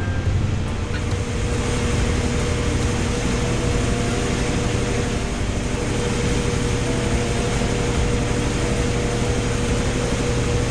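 A machine running steadily: an even noise with a constant hum.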